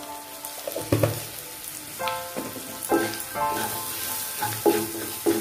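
Sliced onions and freshly added ground cumin and coriander sizzling as they fry in oil in a non-stick kadai, stirred with a wooden spatula that knocks against the pan a few times.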